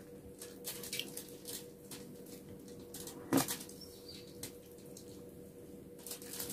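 Close-up eating sounds of a person eating with her hands: chewing and wet mouth smacks, with scattered light clicks and rustles from fingers picking food off an aluminium-foil-covered table. One louder short sound comes about three and a half seconds in.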